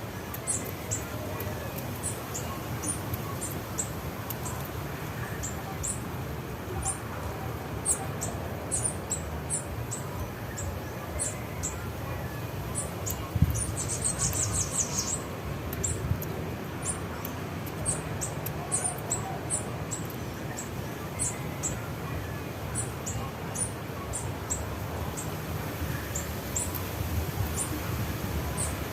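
Small songbirds giving short, very high chirps, repeated irregularly, over a steady low rumble. About halfway through there is a single knock, followed by a quick run of rapid high notes.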